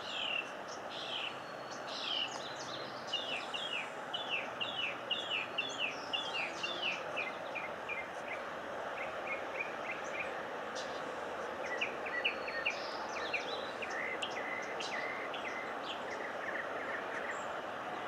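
Wild birds singing and calling: a series of short downward-sliding whistled notes that speeds up and drops in pitch, then quick high chips in the second half, over a steady background hiss.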